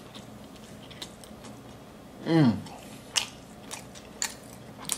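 Close-up chewing of a mouthful of burger, with wet mouth clicks and smacks every half second or so in the second half. About two seconds in there is a short falling "mmm".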